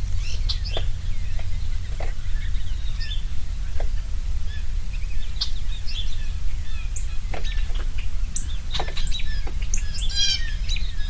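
Several small birds chirping and calling in short, scattered notes, with a quick run of notes about ten seconds in, over a steady low rumble.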